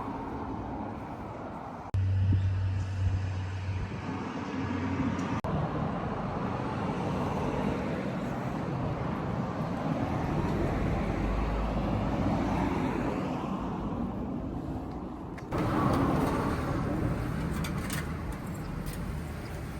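Steady road-traffic and vehicle noise, broken by a few abrupt cuts.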